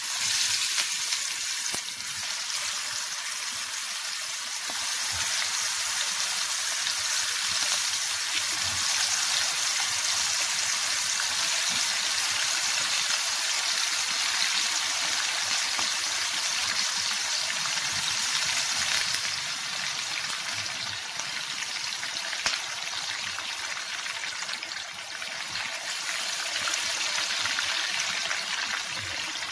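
Chicken pieces sizzling as they shallow-fry in hot oil in a pan: a steady crackling hiss that starts suddenly as the first piece goes into the oil.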